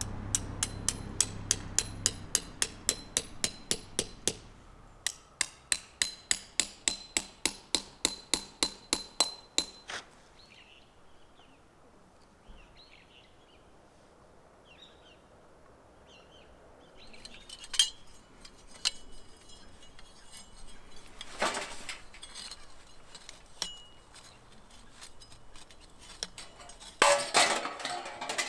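Rhythmic metallic clinking strikes, about three to four a second, for roughly the first ten seconds. After a quieter stretch with faint high chirps come a few separate knocks and a burst of clattering near the end.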